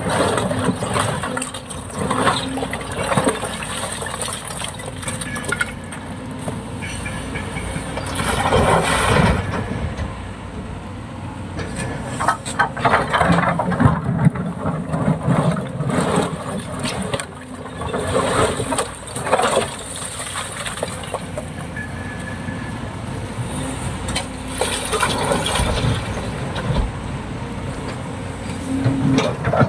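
Kobelco excavator's diesel engine running under load, with loud clatters and knocks at intervals as large stones are loaded into a steel dump truck bed.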